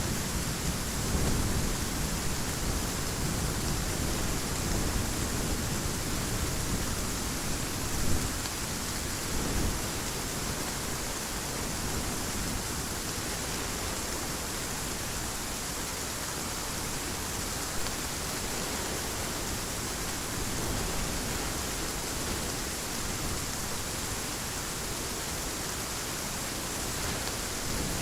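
Heavy rain falling with a steady hiss, with a low thunder rumble in roughly the first ten seconds that swells briefly about eight seconds in and then dies away, leaving the rain alone.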